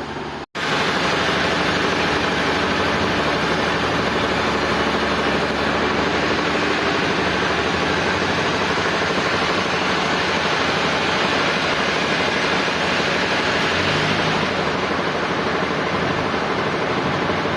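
Sawmill machinery running, a loud, steady mechanical noise. It drops out briefly about half a second in and then resumes at a constant level.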